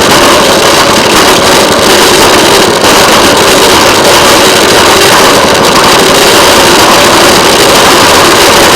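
Railway motorcar's small engine running steadily as the car travels along the track, loud and unbroken.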